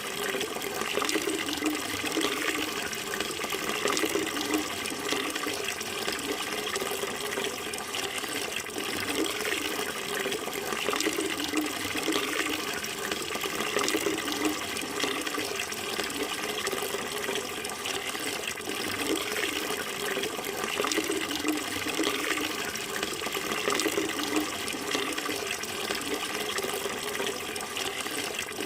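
Running water flowing steadily: a continuous splashing noise that never pauses.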